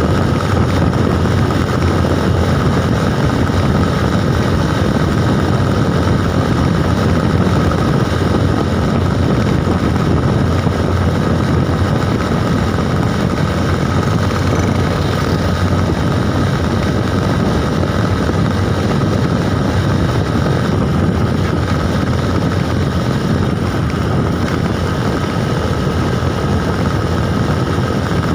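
A bike in motion: a steady, loud running noise with wind rushing over the microphone and a faint steady high whine.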